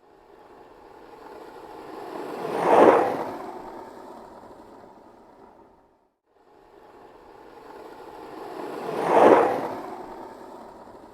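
Skateboard rolling past twice, each pass building to a close peak and then fading away over about six seconds.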